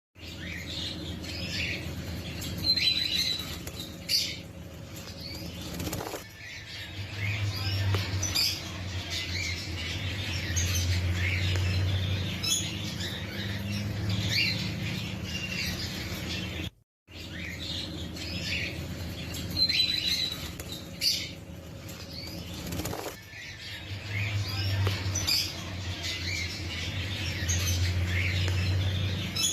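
Lovebirds chirping in short high calls, with wing flapping, over a steady low hum. The sound drops out briefly about halfway through and the same passage plays again.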